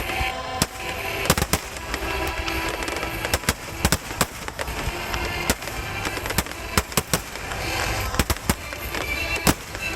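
Large aerial fireworks shells bursting in quick, irregular succession, sharp bangs about two a second, with crackling between them.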